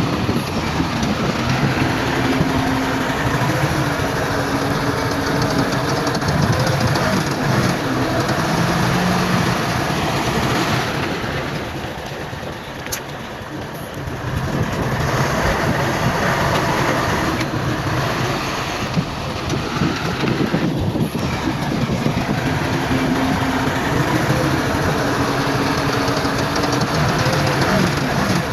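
Heavy diesel earthmoving machinery working: a dense, loud mechanical rumble with engine tones that shift in pitch. It eases off for a few seconds about twelve seconds in, then picks up again.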